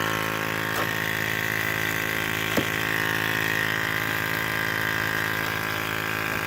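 A steady, terrible buzz from a vibrating unit in a Ford 6.0 Powerstroke's engine compartment, made of many even tones with a bright high whine. It holds constant, with a couple of faint clicks. The owner suspects a fault because the buzz doesn't show up on any diagnostics.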